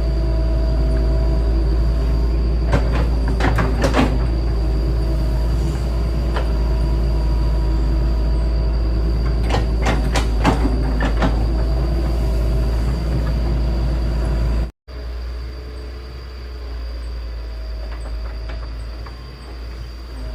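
Excavator's diesel engine running steadily with a heavy low rumble, with clusters of metallic clanks and squeals around 3 to 4 seconds in and again around 10 to 11 seconds in. About 15 seconds in the sound drops out for a moment and then continues quieter.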